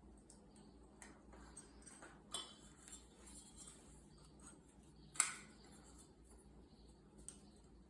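Faint, scattered clicks and clinks of small metal ceiling-fan parts being handled, with one sharper clink about five seconds in.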